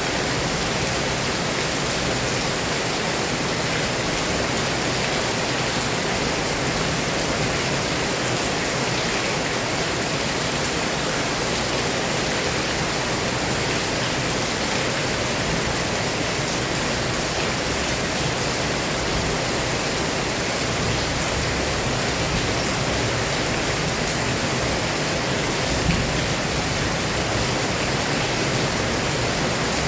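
Heavy rain pouring steadily, a dense even hiss with no let-up, with one brief thump near the end.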